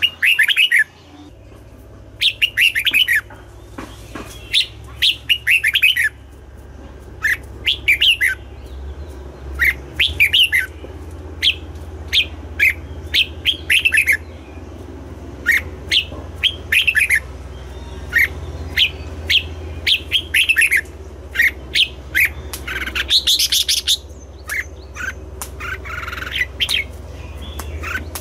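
Red-whiskered bulbul singing: short, loud phrases of quick whistled notes, repeated every second or two, over a steady low hum.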